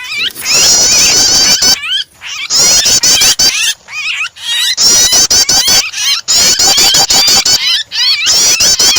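Recorded prinia (prenjak) calls mixed with the distress squeals of a trapped, pinched bird: rapid, high, repeated chirping in runs of one to two seconds with short gaps between them.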